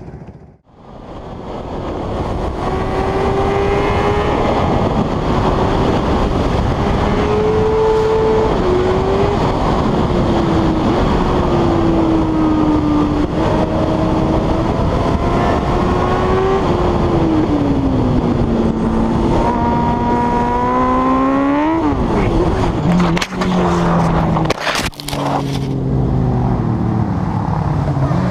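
A motor vehicle's engine running under heavy wind and road noise, its pitch rising and falling with the throttle over many seconds. About 22 seconds in the sound changes to a lower engine note, with a couple of sharp knocks a few seconds later.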